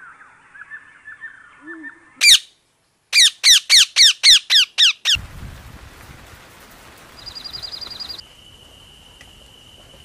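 Bird calls: faint chirps, then one loud downward-sliding call. About a second later comes a run of about eight sharp downward-sliding notes, roughly four a second. A brief fast high trill follows, then a steady high-pitched tone.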